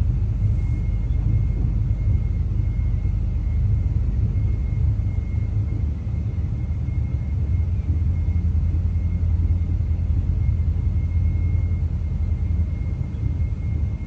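Steady low rumble of a moving passenger train heard from inside the carriage, with a faint steady high whine over it.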